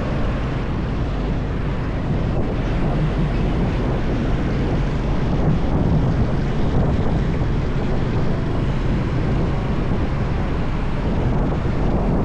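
Steady wind rush over the microphone of a moving motorbike, with the bike's engine and road noise underneath.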